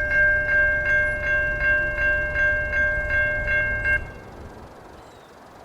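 Railroad crossing bell ringing, about three strikes a second, over a low rumble. Both cut off suddenly about four seconds in, leaving faint background noise.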